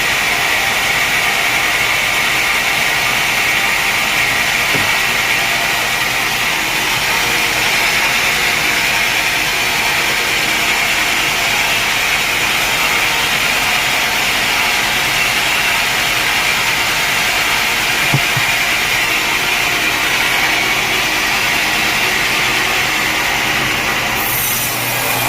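Sawmill saw cutting through a log: a steady, loud sawing noise that holds throughout, with a short change in the sound near the end.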